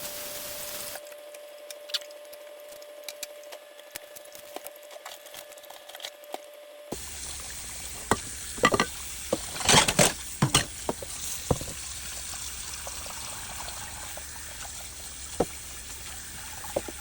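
Water in a plugged-in Force of Nature activator bubbling steadily as the device runs its electrolysis cycle to make the cleaner. A cluster of sharp clicks and knocks comes about halfway through.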